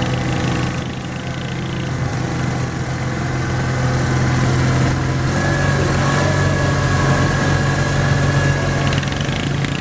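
A garden tractor's engine running steadily, growing a little louder, with its tone shifting about five seconds in and a faint whine over the top for a few seconds after that.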